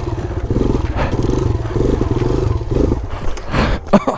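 Small single-cylinder four-stroke dirt bike engine running close by, the throttle opened and closed so the revs rise and fall in short pulses. A few sharp knocks come near the end.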